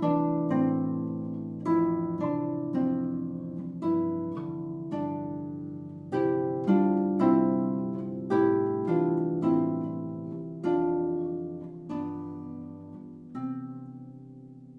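Solo harp playing a simple, easy piece in plucked notes and chords, each ringing and dying away. Near the end a last chord is left to ring out.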